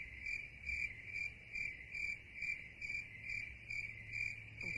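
Insect chirping in an even, steady pulse of about two to three chirps a second, each chirp a single high tone.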